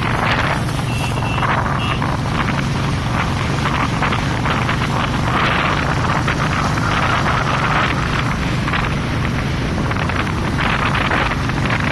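A vehicle engine running steadily with wind buffeting the microphone, and a few short high beeps about a second in.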